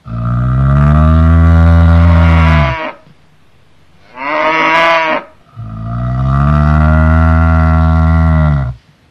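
Cattle mooing: two long, low moos with a shorter, higher call between them.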